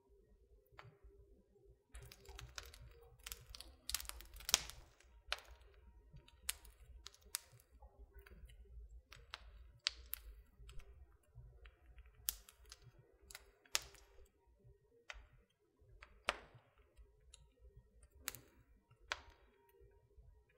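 Wood burning in a fireplace, crackling with irregular sharp pops and snaps. There is a flurry of them a few seconds in, the loudest around four to five seconds in.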